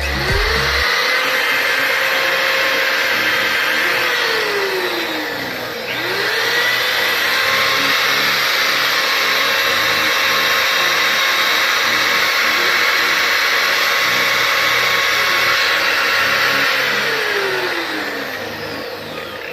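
Small electric motor spinning up with a rising whine and running steadily. About four seconds in it winds down, then spins up again and runs until it winds down near the end.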